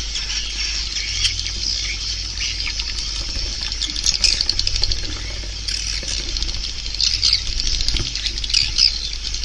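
Swiftlets twittering: a dense, high, rapid chirping and clicking chatter with louder flurries every few seconds, over a steady low hum. It is a swiftlet call recording of the kind played through tweeters to draw swiftlets into a swiftlet house.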